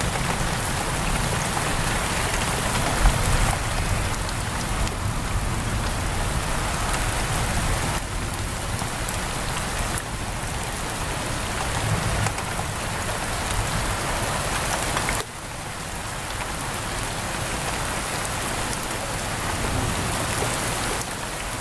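Heavy rain pouring steadily, drumming on a window.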